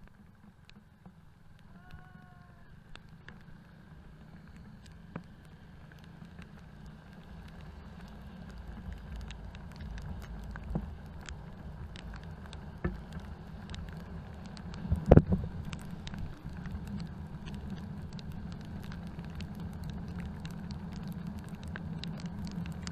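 Motorcycle riding in the rain: a low, muffled rumble of engine and road that builds gradually, with scattered ticks of raindrops striking the camera. There is a sharper knock about fifteen seconds in.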